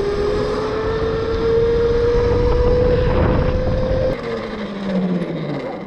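TUTTIO electric dirt bike's motor whining as it accelerates, the whine rising slowly in pitch over wind noise. About four seconds in, the throttle eases off: the whine cuts away and a lower tone falls as the bike slows.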